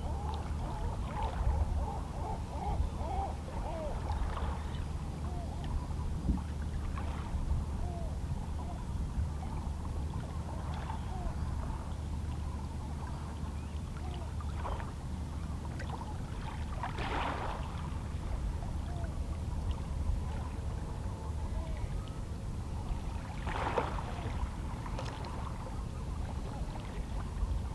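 Small, calm sea waves lapping and splashing against shoreline rocks, in irregular little splashes over a steady low rumble of the sea. Faint distant seabird calls come in the first few seconds.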